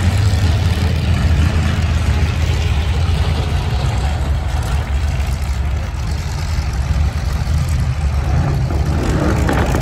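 Vehicle engines idling with a steady low rumble.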